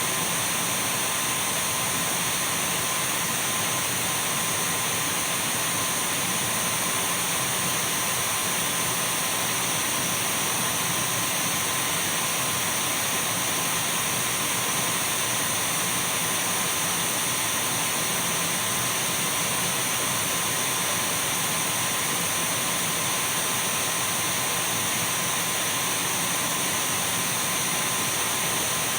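Dyson V12 cordless stick vacuum running continuously at a constant speed: an even rush of air with a steady high-pitched whine on top.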